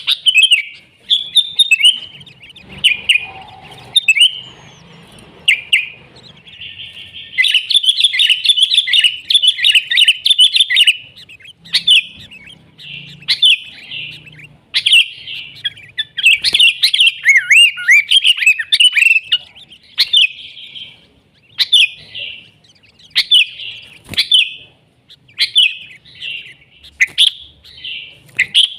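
Sooty-headed bulbul singing loudly in bright, chattering phrases, repeated again and again, with a longer unbroken run about a quarter of the way in and another past the middle.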